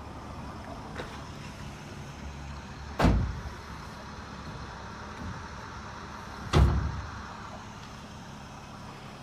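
Two loud thumps about three and a half seconds apart, each with a short low rumble after it, over a steady low hum.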